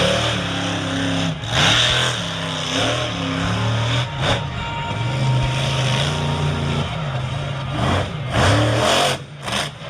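A large truck engine running, its pitch stepping up and down, with several loud rushes of noise.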